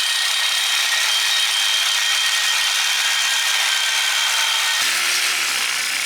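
Reciprocating saw with a metal-cutting blade running steadily as it cuts through a hollow metal chain-link fence post, giving a continuous gritty rasp with a high whine. About five seconds in the sound changes, and lower tones join the rasp.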